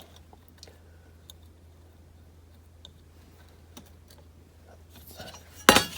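Faint scattered clicks of a small screwdriver tip working a tiny grille insert out of a die-cast model car body. Near the end comes a louder rattling clatter.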